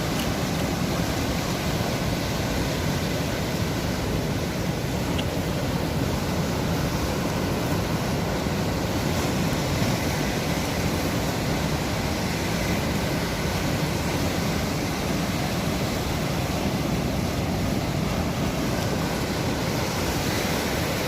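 Sea waves washing on the shore in a steady, unbroken rush.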